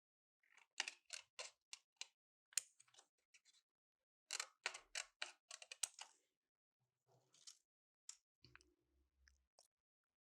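A quick run of light, sharp clicks, about four a second, a pause, a second run, then a few scattered ticks: close-up handwork with small tools or materials.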